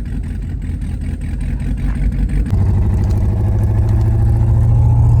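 Twin-turbo LS V8 engine in a limousine running on the road, with a steady low drone that grows louder and slowly rises in pitch from about halfway through, as under acceleration.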